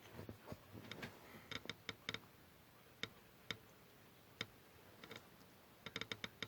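Faint, irregular clicks and light taps of hands working on a paper model. Single clicks are spaced out, with quick clusters about a second and a half in and near the end.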